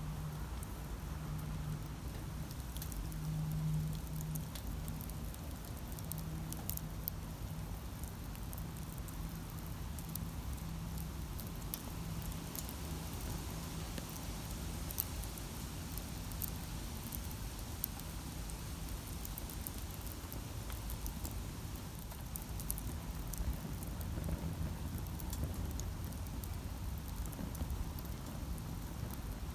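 Wood campfire crackling: scattered sharp pops and ticks over a low steady rush of the burning fire. A low steady hum runs underneath and fades out about halfway.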